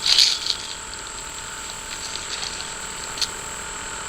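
Fishing reel clicking as it is worked: a quick run of ratchet-like clicks at the start and a single sharp click about three seconds in, over a steady hiss.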